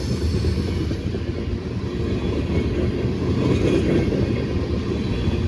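Freight train cars rolling past at close range: a steady, heavy rumble of steel wheels on the rails.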